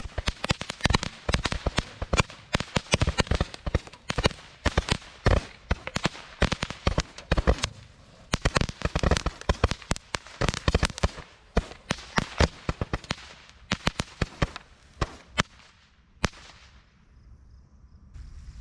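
Firecrackers going off in a dense, rapid run of sharp pops, thinning to a few last cracks and stopping about sixteen seconds in.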